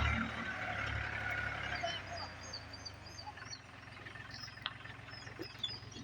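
Tractor engine running with a steady low drone that drops back after about two seconds, while birds chirp in short high calls through the rest.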